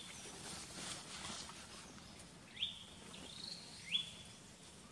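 A bird's whistled calls, each note swooping sharply upward and then holding briefly on one high pitch, heard about three times in the second half, over a faint steady high hiss of insects.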